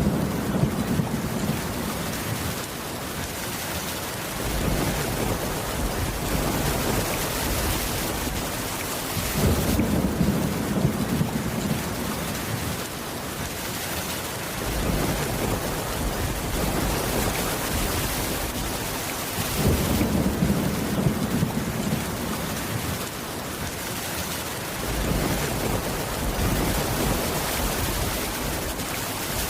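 Steady heavy rain with low rolling thunder that swells and fades about every ten seconds.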